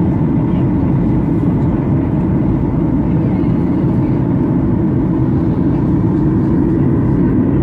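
Airliner cabin noise: a steady low rumble.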